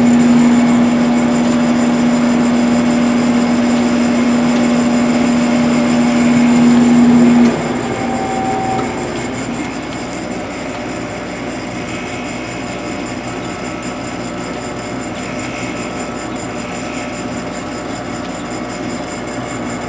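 Sharp 8500 BTU window air conditioner running on fan only: a steady blowing whoosh with a strong low hum that cuts off about seven seconds in, after which the fan runs on a little quieter.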